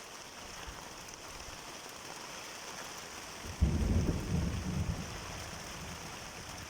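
Steady rain falling, with a sudden low rumble of thunder about three and a half seconds in that dies away over the next couple of seconds.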